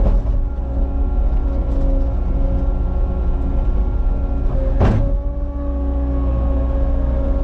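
Cat 279 skid steer's diesel engine running steadily, with one sharp clunk about five seconds in.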